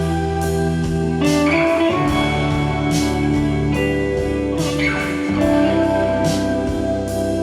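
Instrumental pop-rock track: Fazley FTL200NT electric guitars playing over a bass guitar and a programmed drum kit with a steady beat.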